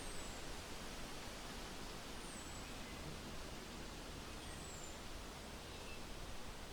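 Steady rain falling, an even hiss. Over it, a thin high whistle that falls in pitch comes about every two seconds.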